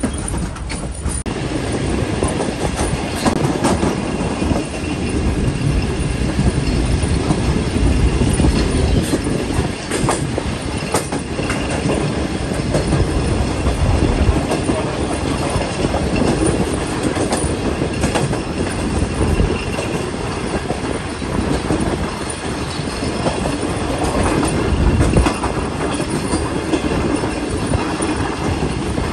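Passenger train coaches running along the track, heard from aboard: a steady rumble of wheels on rail with irregular clacks over the rail joints and a thin steady wheel squeal.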